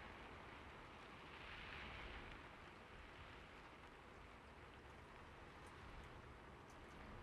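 Near silence: a faint steady hiss, swelling slightly about a second and a half in, with a few faint ticks near the end.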